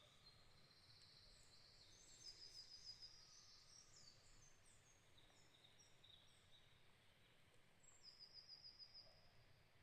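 Faint songbird chorus: high, thin chirps and short phrases from small birds, with a rapid trill a couple of seconds in and another near the end.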